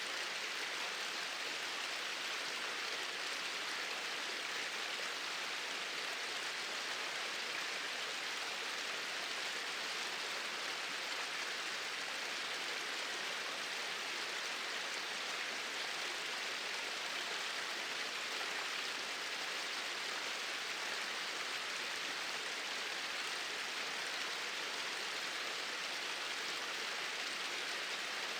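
Small waterfall splashing and rushing in a steady, unchanging hiss.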